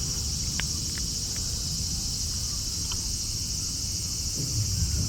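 Steady, high-pitched chorus of insects buzzing without a break, over a low rumble, with a few faint short chirps.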